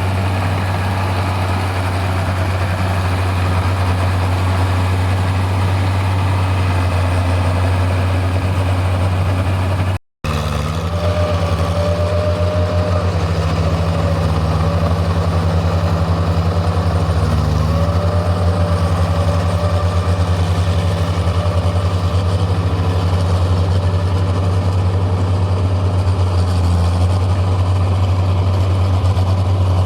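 Tractor engine running steadily with a deep, even hum; the sound drops out for a split second about ten seconds in.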